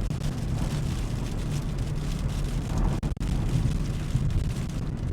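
Steady low rumble of road and wind noise inside a car driving on a snowy highway, with strong wind buffeting the car.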